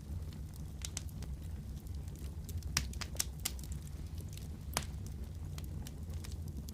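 Wood fire crackling: a steady low rumble of burning under scattered sharp snaps and pops, several of them close together in the middle.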